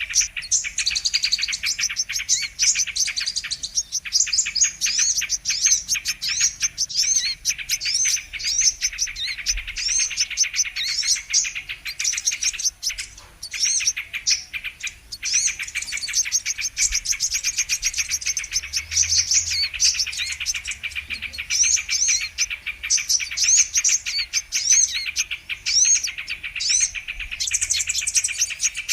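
Sunbird calls: a dense, continuous stream of rapid high chirps and short twittering trills, densely overlapping throughout.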